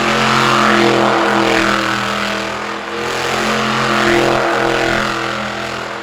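Monster truck engine running hard at high revs, its pitch held fairly level for several seconds with a slight dip in loudness about halfway through. It falls away suddenly at the end.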